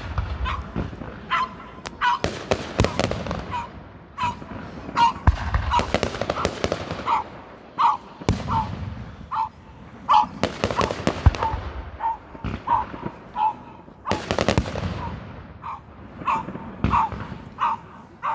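Fireworks display with sharp bangs and crackling bursts going off repeatedly, and a dog barking over and over, about once or twice a second, between the bangs.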